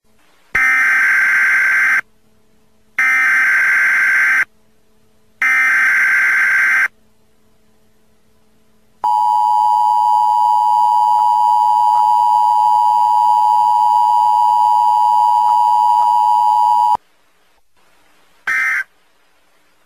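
Emergency Alert System tones: three buzzy data bursts of about a second and a half each, a long steady two-pitch attention tone lasting about eight seconds, then short end-of-message bursts near the end.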